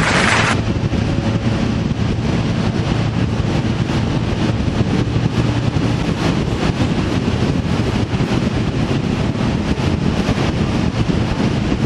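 Wind buffeting the microphone of a moving vehicle, over a steady low rumble of engine and road noise.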